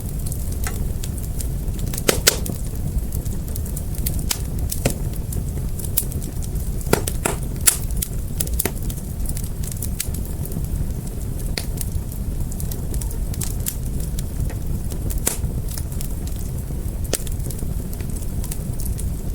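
Wood fire burning with a steady low rumble of flames and irregular sharp crackles and pops, a few of them louder, about two and seven seconds in.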